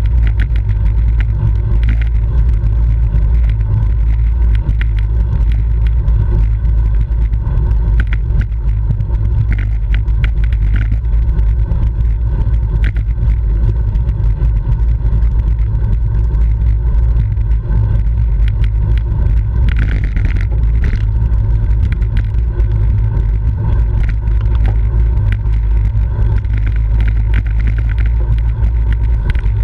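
Steady, loud wind rumble across a bike-mounted camera's microphone while riding at race speed, with scattered faint clicks.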